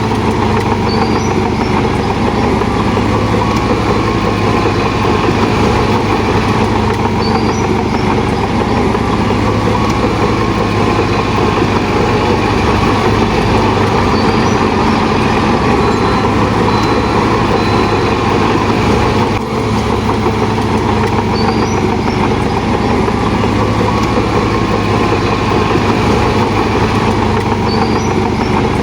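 Heavy diesel engine of earthmoving machinery running steadily under load, with a deep, even drone and faint high squeaks every few seconds.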